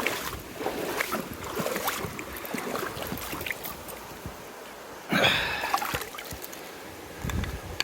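Water moving and splashing, with scattered knocks and clicks of handling, a louder burst of noise about five seconds in and a low thump near the end.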